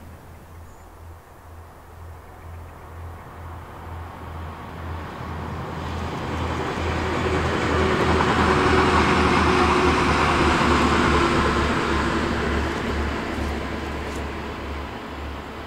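TransPennine Express train hauled by a Class 68 diesel locomotive passing at speed. Its running noise builds over several seconds, is loudest around the middle as it goes by, then fades as it draws away.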